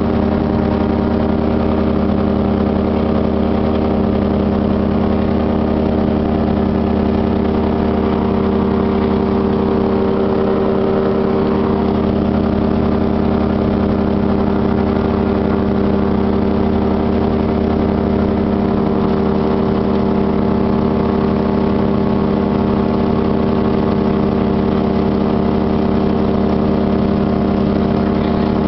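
Airplane engine drone heard from inside the cabin in flight, a loud, steady hum with several fixed tones that does not change.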